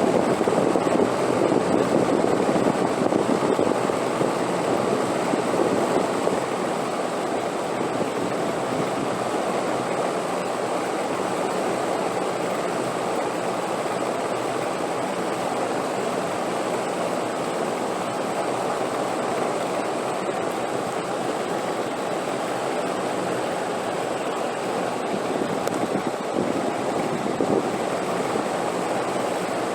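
Steady rushing wind, stronger for about the first six seconds and then settling to an even level.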